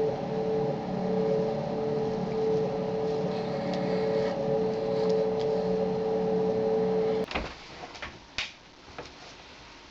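A steady machine hum with a constant tone that cuts off abruptly about seven seconds in, followed by a few light clicks and knocks.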